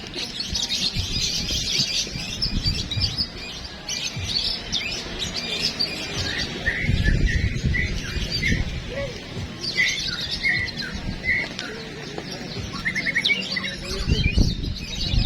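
Many songbirds singing at once: a dense mix of high chirps and whistles, with a run of short repeated notes through the middle and quick trills near the end, over a low background rumble.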